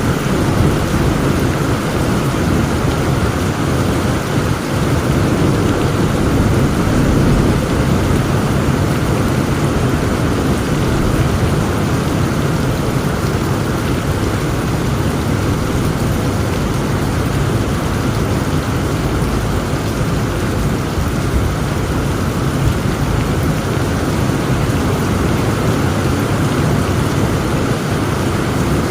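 Heavy rain pouring steadily, with a low rumble of thunder underneath that swells slightly a few seconds in.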